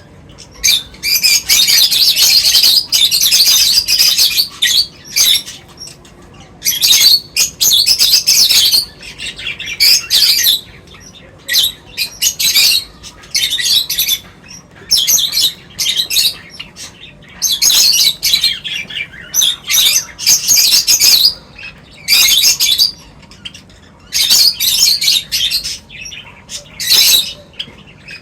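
Birds chirping and chattering noisily in bursts of a second or two, with short pauses between.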